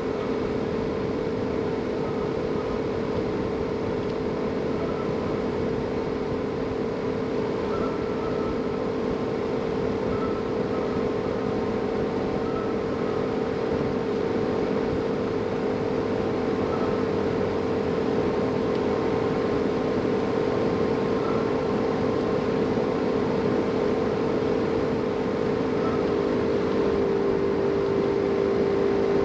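Leaf blower motor running steadily at a high, even pitch, dropping slightly in pitch near the end, blowing through the dryer vent duct.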